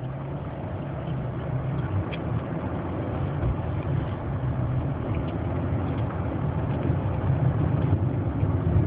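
Car engine and road noise heard from inside the cabin while driving, a steady low hum that slowly grows louder.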